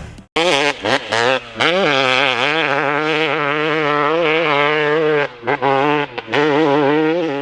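Two-stroke dirt bike engine held at high revs, with short throttle chops. After one of them, about a second and a half in, the pitch rises again.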